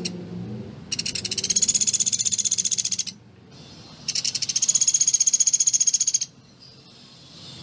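Sunda pygmy woodpecker (pelatuk beras) giving two long, rapid, high-pitched trills of about two seconds each, a second apart, each a fast machine-gun-like run of dry notes.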